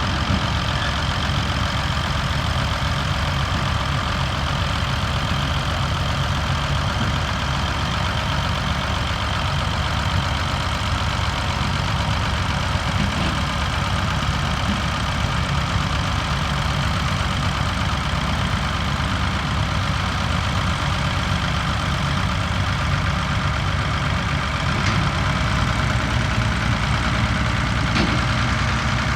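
Large diesel tractor engine idling steadily.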